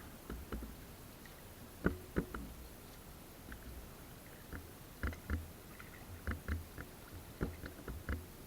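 Irregular light knocks and splashes of water around a small boat, about a dozen scattered through, each with a low thump, as fishing gear is handled on the water.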